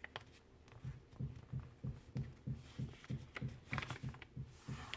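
Sheet of paper being folded and pressed into a crease on a table for a paper airplane wing: soft low thuds about three times a second, with a few light paper crackles.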